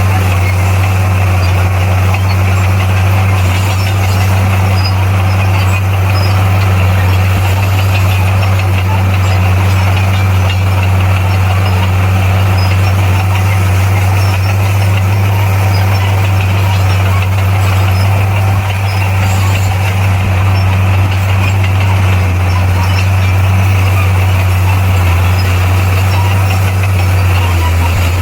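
Komatsu D58P bulldozer's diesel engine running at a steady, unchanging pitch: a loud, constant low drone.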